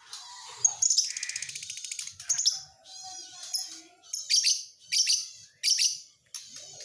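Lovebird singing: a fast, rattling trill about a second in, followed by a string of short, shrill chirps.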